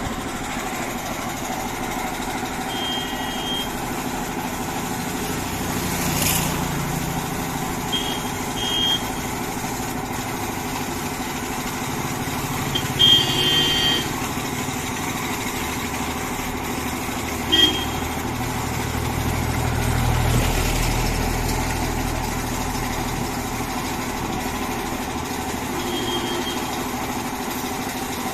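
Steady mechanical hum with the rumble of vehicles swelling and fading several times. Short high beeps or toots sound about five times.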